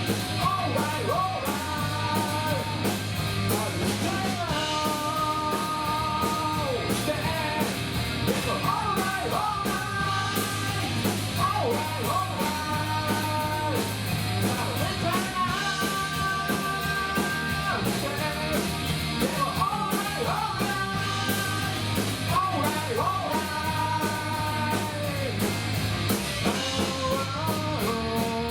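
Rock band playing live: electric guitars, bass and drums with fast, steady cymbal hits, and a melody line of held notes that slide between pitches.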